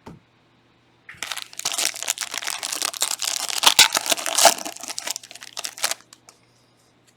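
Trading card pack wrapper being handled and torn open, a dense crinkling and crackling for about five seconds that starts a second in and dies away near the end. A short knock at the very start.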